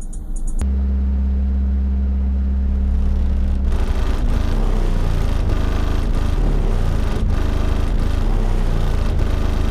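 Truck's car-audio subwoofers playing a bass-heavy song at high volume, the deep bass overwhelming the microphone. A low sustained bass note comes in suddenly about half a second in, and a steady beat joins around four seconds in.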